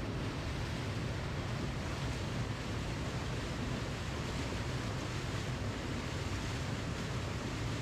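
Waterfall rushing: a steady, unbroken roar of falling water with a deep low rumble under it.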